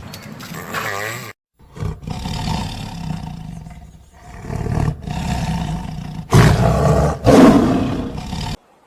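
Lion growling and roaring in a run of rough, low calls, starting after a brief gap about a second and a half in. The two loudest roars come near the end and then cut off suddenly.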